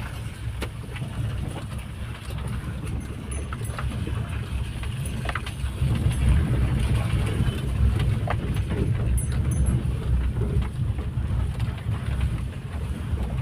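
Vehicle driving along a rain-wet road: a steady low rumble of engine and tyres, with a few sharp knocks.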